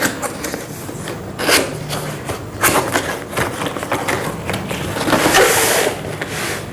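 A cardboard box being opened and its contents handled: scraping, rustling and sharp knocks, with a longer scraping rush about five seconds in.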